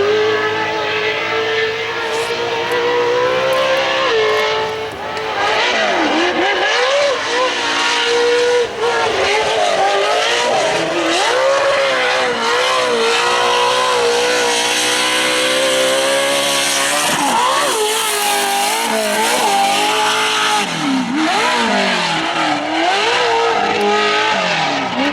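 Off-road race truck engines at high revs, the pitch held high and then dipping and surging again and again as the throttle is lifted and reapplied around the track. In places a second engine's pitch overlaps the first.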